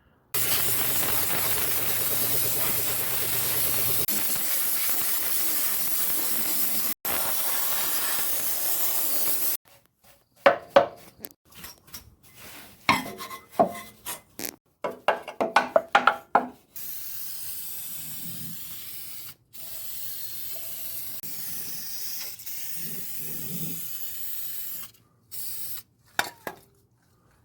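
A sprayer hissing steadily for about nine seconds as a cleaning solution of Ajax in water is sprayed onto a rusty vehicle frame. This is followed by a few seconds of sharp, irregular scraping strokes of rust being scraped off the frame, and then a quieter, steady spray hiss from an aerosol can of rust-barrier undercoating.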